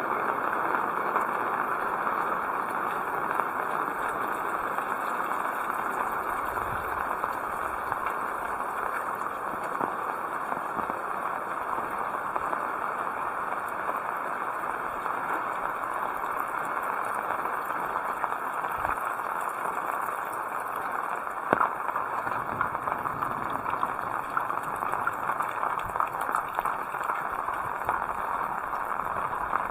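Heavy rain falling steadily, an even hiss of many drops, with one sharp click about two-thirds of the way through.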